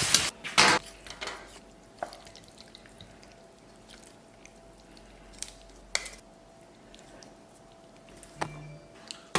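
Stir-fry sizzling in a wok cuts off within the first second. Then a quiet room with a few scattered light clicks and knocks of dishes and utensils.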